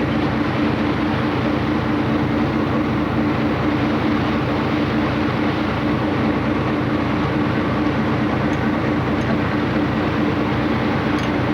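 Passenger motor ship's engine running with a steady drone and a constant low hum, heard on board.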